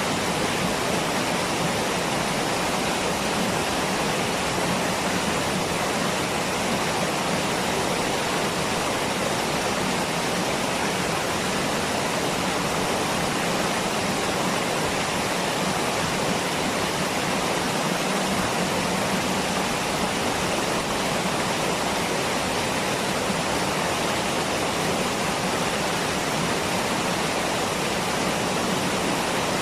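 Waterfall rushing, a steady full-range roar of falling water.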